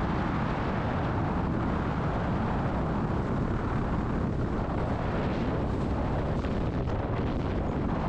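1941 Aeronca Super Chief light aircraft's engine and airflow, a steady loud rush that cuts in suddenly at the start.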